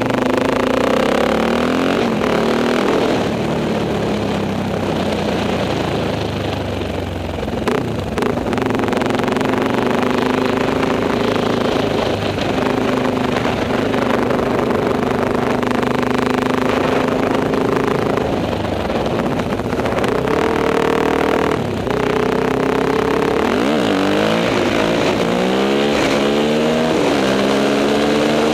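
Enduro motorcycle engine running under load on a muddy forest ride, its pitch holding steady for long stretches, then rising and falling with the throttle several times near the end. A couple of short knocks come through, about a third of the way in and again later.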